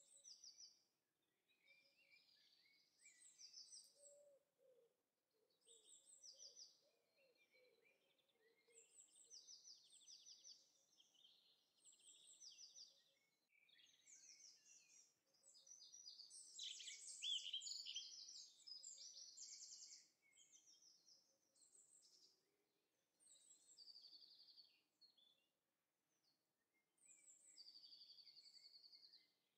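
Faint birdsong: several small birds chirping and singing short phrases and trills one after another, busiest and loudest about halfway through.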